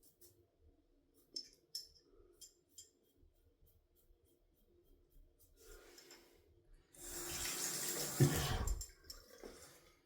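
Faint scratchy ticks of a slant safety razor cutting stubble. About seven seconds in, a bathroom tap runs into the sink for about two seconds and stops.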